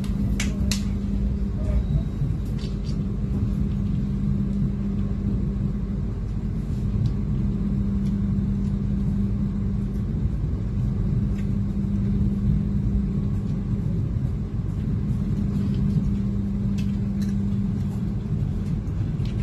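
Steady low rumble of a moving passenger train heard from inside the carriage, with a constant hum over it and a few faint clicks.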